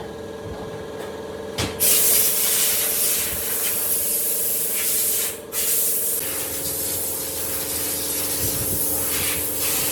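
A power tool's motor running with a steady hum under a loud hiss, the hiss coming in about two seconds in and briefly cutting out about five and a half seconds in, the hum shifting slightly in pitch just after.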